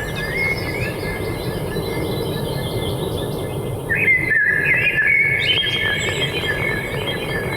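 A chorus of small forest songbirds chirping and trilling over one another above a steady low background rush. The birdsong grows louder about four seconds in.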